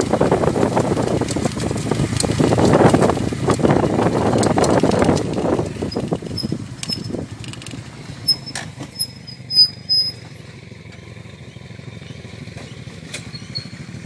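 Wind buffeting the microphone on a moving motorcycle, loud for about the first five seconds and then dying down. A few faint high chirps and a few short knocks follow.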